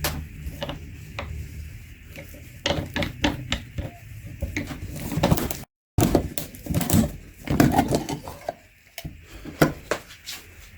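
Irregular metallic clicks and knocks as the oil filter canister and tools are handled while the filter is being opened. A low hum fades out about a second in.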